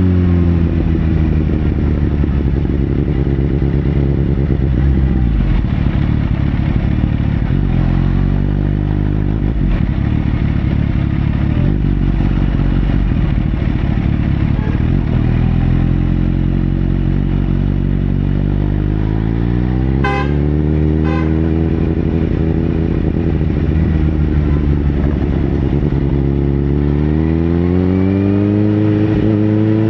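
Sportbike engine running, its revs dropping at first, then rising and falling twice in long swells. Two short beeps about twenty seconds in.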